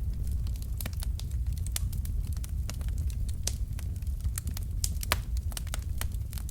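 Wood fire with burning logs crackling, sharp irregular pops and snaps, several a second, over a steady low rumble of the flames.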